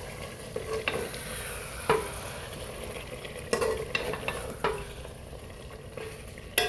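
Mutton frying and sizzling in a pan while it is stirred, with a steady hiss and several irregular knocks and scrapes of the stirring utensil against the pan.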